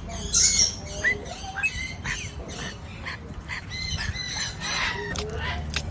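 Parrot chattering: a quick run of short chirps, whistles and squawks, with sharp clicks in between.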